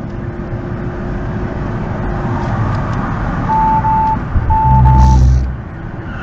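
Vehicle driving, heard from inside through a dashcam: steady engine and road noise, with two pairs of short, pure electronic beeps past the middle and a louder low rumble near the second pair.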